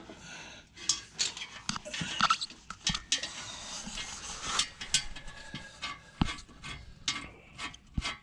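Irregular clinks, taps and rubbing of hand tools and metal parts being handled during an oil filter change.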